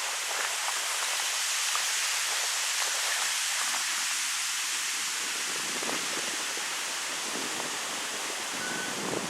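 Wind blowing steadily through birch trees on a mountain pass, a broad rushing hiss of stirring leaves and branches, swelling a little lower in pitch in the second half. A brief high tone sounds near the end.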